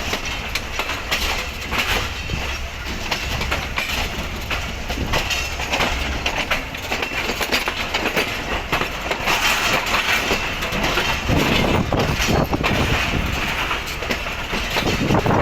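Passenger train moving along the rails, its wheels clicking steadily over rail joints with a continuous rumble, growing a little louder toward the end.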